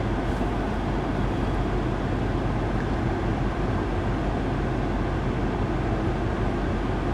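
Steady cabin noise of a 2021 BMW X5 M Competition standing with its twin-turbo V8 idling and the climate-control fan blowing: an even low hum under a wash of air noise.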